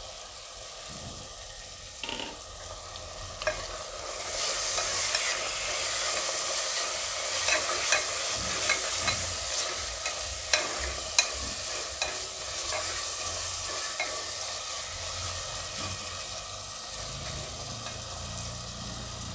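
Fresh green pigeon peas frying in tomato masala in a pressure cooker, sizzling as a silicone spatula stirs them, with frequent light scrapes and taps of the spatula against the pot. The sizzle grows louder about four seconds in.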